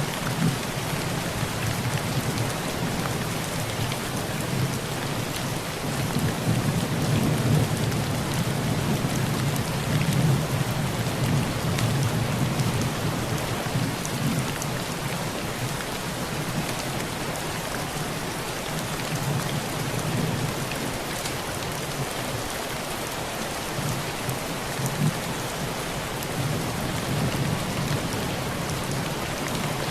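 Heavy rain pouring on a tin roof as a steady hiss, with low rolling thunder underneath that swells and fades over several seconds at a time. The thunder is strongest about a third of the way in and again near the end.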